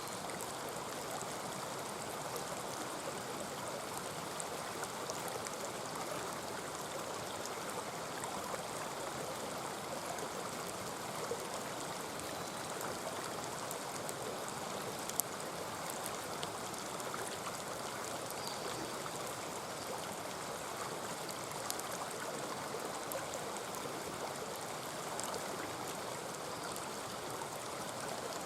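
Mountain stream running steadily, with scattered sharp pops of a wood campfire crackling over it, one louder pop about halfway through.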